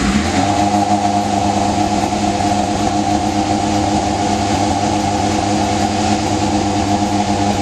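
1999 Yamaha R6 sportbike's inline-four engine idling steadily, just after being started.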